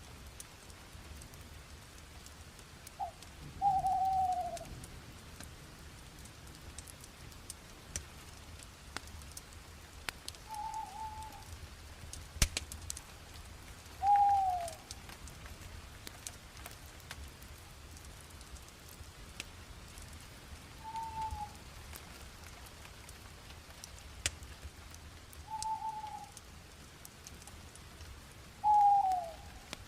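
A bird repeats a short falling call every few seconds, about seven times, over the light crackle of a bonfire: scattered faint pops and one sharp snap about twelve seconds in.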